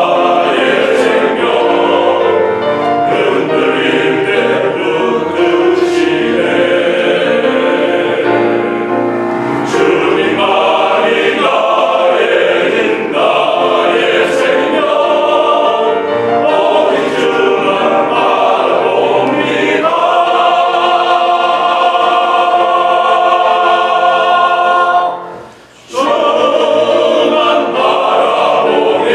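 Church elders' vocal ensemble singing a congratulatory anthem in parts, with a long held chord and a brief break about 25 seconds in before the singing resumes.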